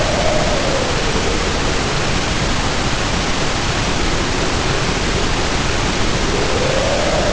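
Heavy rain pouring down in a steady hiss, with wind howling in a wavering tone that swells at the start, fades through the middle and rises again near the end.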